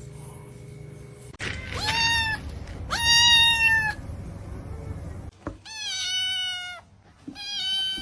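A domestic cat meowing four times, each meow long and drawn out, about a second apiece.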